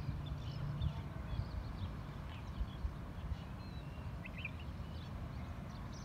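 Faint short bird chirps scattered through, with a brighter cluster of chirps about four seconds in, over a steady low rumble with irregular soft knocks.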